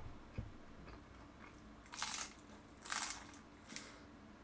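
Close-up chewing of crispy battered squid tempura, with a few sharp crunches about two and three seconds in.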